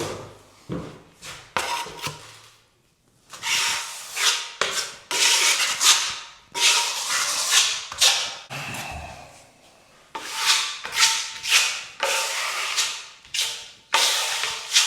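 Metal filling knife scraped across a plastered wall in a run of repeated strokes, spreading filler over the damaged surface, with a short pause about three seconds in.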